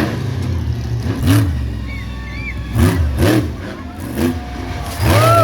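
Monster truck engine running low, blipped up in several quick throttle revs, then held at a louder steady rev near the end.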